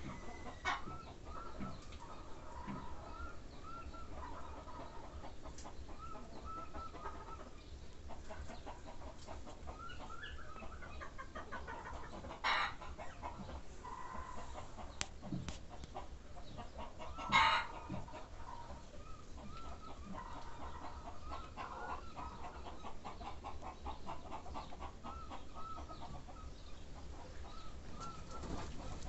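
Birds calling in the background with short, repeated pitched notes, over a low steady hum. Two brief, louder sharp sounds come about twelve and seventeen seconds in.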